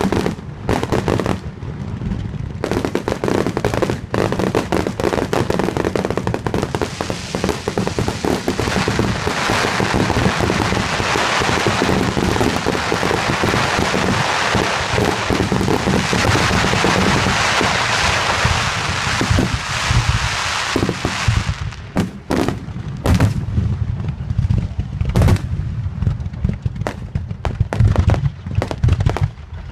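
Fireworks going off: repeated sharp bangs, a long dense stretch of crackling through the middle, then separate bangs again near the end.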